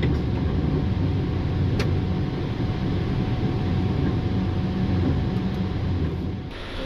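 Steady airflow and engine noise in a Boeing 777-300ER cockpit during the climb just after takeoff, with one sharp click about two seconds in. The noise drops off suddenly near the end.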